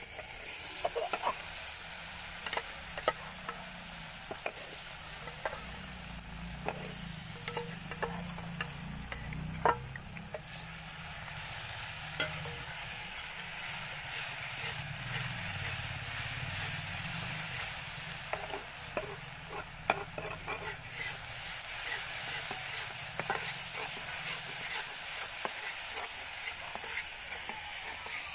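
Ground masala paste sizzling as it fries in oil in a black iron kadhai, stirred and scraped with a flat metal spatula. A steady frying hiss, with the blade clicking and scraping against the pan now and then.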